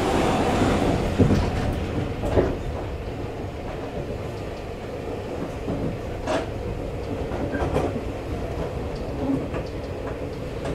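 Running noise inside a Seibu 40000 series motor car, which has a Toshiba IGBT-VVVF inverter driving permanent-magnet synchronous motors. A steady rumble of wheels on rail is broken by a few sharp rail-joint clacks. The noise gets quieter over the first few seconds as the train slows for a station stop.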